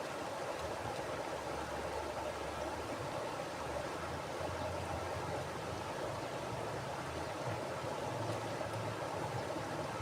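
Mountain river water flowing steadily over rocks, a constant rushing with a low rumble underneath.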